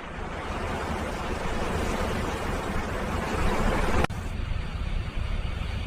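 Steady rushing ambient noise, like traffic or wind, that swells slightly and then changes abruptly about four seconds in.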